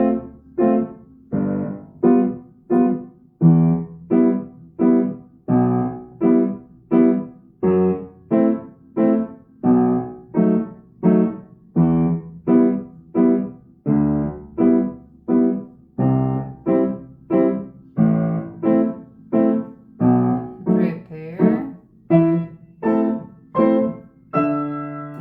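Piano played slowly and evenly, one octave or chord struck about twice a second, each ringing briefly before the next; a longer chord is held near the end.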